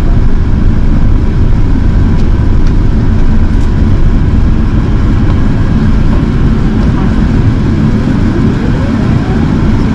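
Cabin noise inside an Airbus A380 in descent: a loud, steady low rumble of engines and airflow. Near the end, a faint whine rises in pitch.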